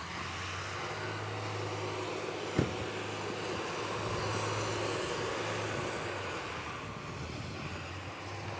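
A vehicle engine running with a steady low hum, and one sharp knock about two and a half seconds in.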